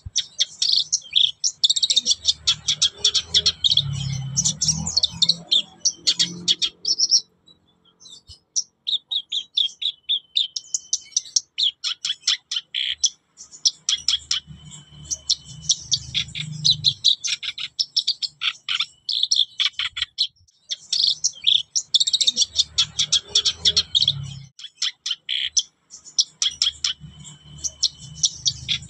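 Black-browed reed warbler in full song: fast runs of high chattering notes delivered in bouts of several seconds with short pauses between them. Low thuds sound under some of the louder bouts.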